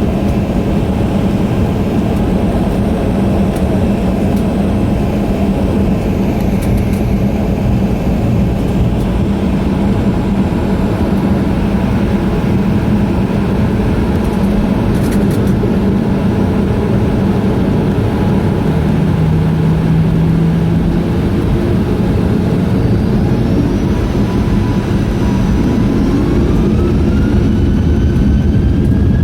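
Boeing 737-900 cabin noise on the runway: the CFM56-7B turbofans and air system make a steady hum. In the last few seconds the engines spool up with a rising whine as takeoff thrust comes on.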